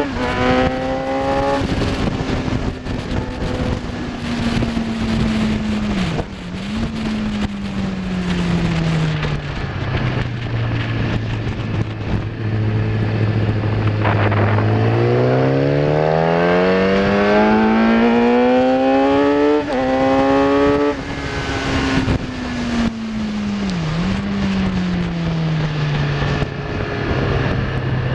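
Kawasaki ZX-10R inline-four sport bike engine at race pace, with wind rushing past. The revs fall through downshifts with a throttle blip, hold low for a few seconds through a slow corner, then climb hard with two quick upshifts. They drop again on the brakes with another blip and settle low.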